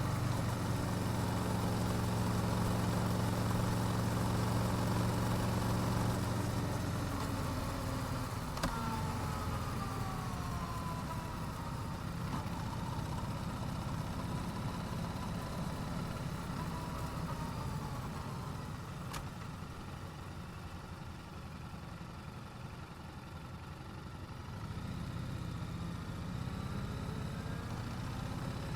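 Yamaha YZF-R7's 689 cc parallel-twin engine through its stock exhaust, idling steadily for the first few seconds, then less even and quieter for a stretch before the low engine sound picks up again near the end. A whine falling in pitch passes about nine seconds in, and there are two sharp clicks, about ten seconds apart.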